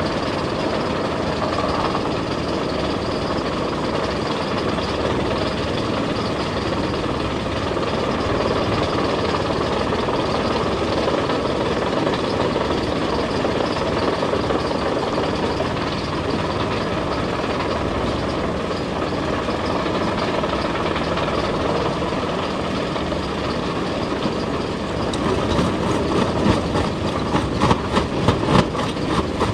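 Heavy excavator's diesel engine running steadily. Near the end a rapid series of sharp knocks begins.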